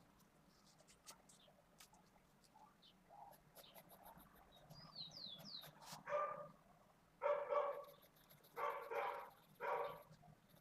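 A dog barking four times in the second half, each bark short and pitched.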